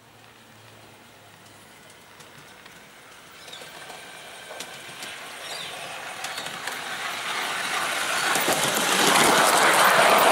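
G-scale garden-railway model train approaching on its track, its wheels rolling and clicking over the rails, growing steadily louder until it is passing close by near the end.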